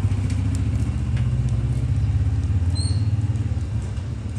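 Suzuki GS 150's single-cylinder four-stroke engine idling steadily with a quick, even pulse. A short high chirp sounds about three seconds in.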